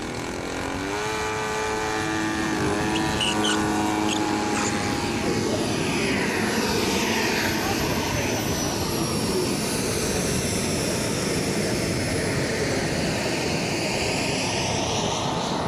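Radio-controlled scale Cessna 182 model's engine and propeller rising to full power, then droning steadily in flight, its pitch sliding down and later back up as the plane passes.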